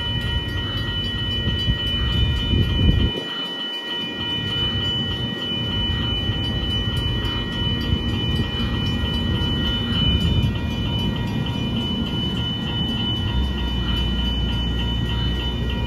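A train running through, a steady low rumble with several steady high-pitched tones held over it; the lowest rumble drops out briefly about three seconds in.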